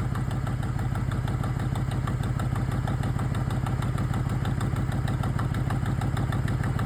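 Ford F-150 King Ranch's 5.4 Triton V8 idling steadily with a rapid, even ticking from a hole in the exhaust manifold, a leak which the owner insists is not a timing chain or cam-phaser fault.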